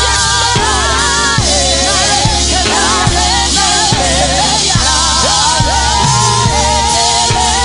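Live gospel praise-break music: singing voices over a full band with drums, bass, keyboard and crashing cymbals, played loud.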